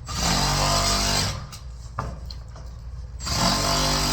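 Power double-cut sheet metal shears cutting through spiral ductwork along a marked line. The motor spins up and runs for about a second with the metal cutting noise, stops for about two seconds, then starts again near the end.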